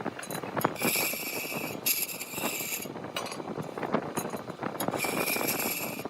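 A large wood lathe, with a hand-held turning tool cutting the spinning wood in three passes of about a second each, each a high hiss with a faint whistle in it, and scattered knocks and clatter between the cuts.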